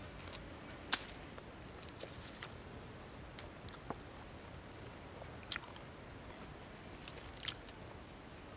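Eating sounds: chewing and crunching of fresh lettuce leaves, with about half a dozen sharp clicks and crackles spread through, the loudest about a second in.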